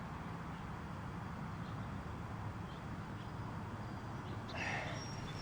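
Steady outdoor background noise with a low rumble, and faint, scattered bird chirps; a slightly louder, higher bird call comes near the end.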